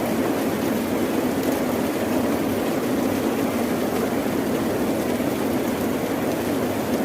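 Rain and ocean-wave ambience: a steady, even rushing noise with no pauses or separate crashes.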